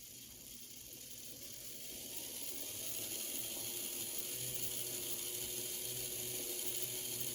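Motor and gear drive of an older Bachmann E60CP HO-scale electric model locomotive running on the bench, its gears freshly greased with petroleum jelly. It starts slowly and gets louder over the first few seconds as it speeds up, then runs steadily.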